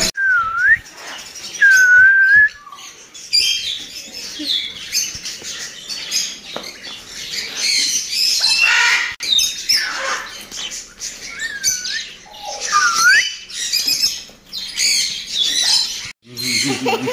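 Parrots calling: repeated harsh squawks and screeches, with four clear whistled calls that dip down and swing back up in pitch.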